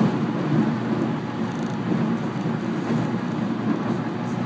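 Cabin running noise of a JR East 719 series electric train travelling at speed: a steady low rumble.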